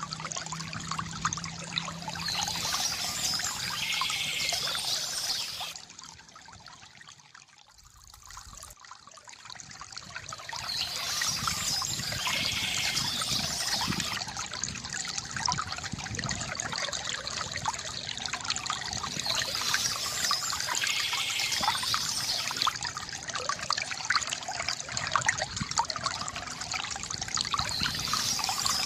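Water trickling and pouring from a bamboo fountain spout, a continuous gurgling flow. It fades away for a few seconds around a quarter of the way in, then comes back.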